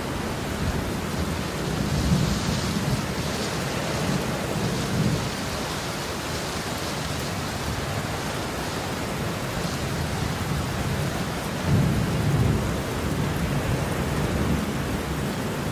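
Heavy rain falling steadily, with low rolls of thunder rumbling under it, the louder ones a couple of seconds in and about twelve seconds in.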